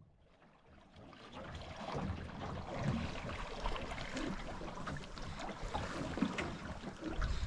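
Water splashing and trickling against the hull of a small Mirror sailing dinghy under way, fading in over the first two seconds.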